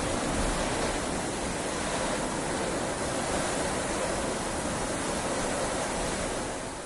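Heavy rain falling steadily, an even hiss of rainfall that eases slightly near the end.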